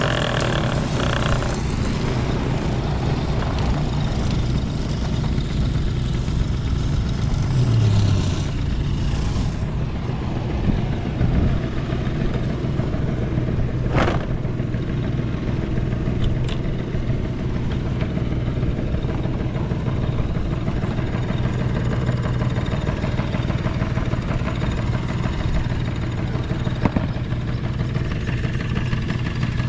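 Yamaha Passol scooter's small two-stroke engine idling steadily, with a short blip of revs about eight seconds in and a sharp click around halfway. It runs without any abnormal noise and revs up cleanly.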